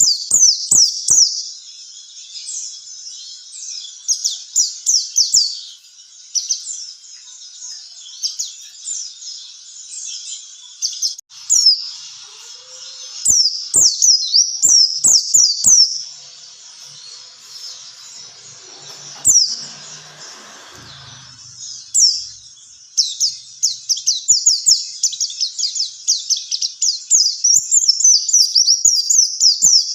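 White-eye (pleci) song: rapid runs of high, thin, down-slurred chirps in bursts, with a few quieter stretches between them. This is a recorded song of the kind played as a lure and training track for caged songbirds.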